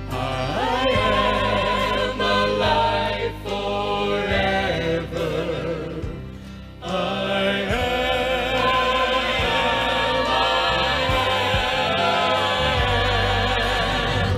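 Gospel choir singing sustained, wavering chords over an instrumental backing, with a brief dip about halfway through before the voices swell again.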